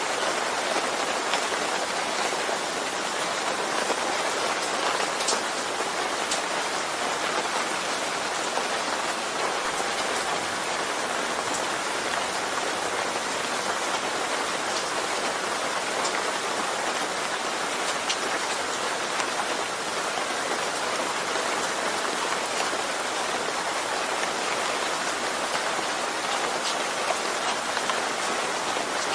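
Steady rain falling on a surface, an even hiss with occasional faint drop ticks.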